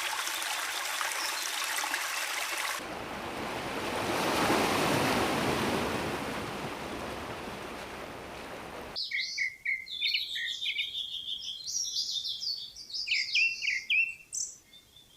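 Running water hissing, then a broader rush that swells and fades like surf, then cut off abruptly by small birds chirping in quick, high twitters.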